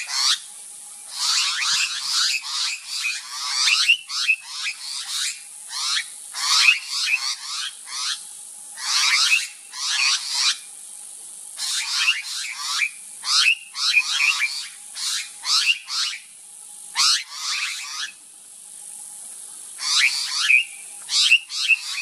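Birds giving loud, harsh, raspy calls in quick clusters with short pauses between them, over a steady high hiss.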